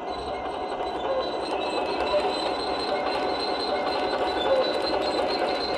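Radio-controlled model construction machinery running: a steady high motor whine over dense mechanical rattling and clatter.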